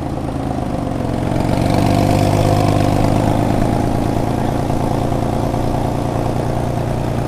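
A Porsche 993 Carrera's air-cooled flat-six is running at low revs through an aftermarket exhaust as the car rolls slowly past. The sound grows louder over the first two seconds, then holds steady.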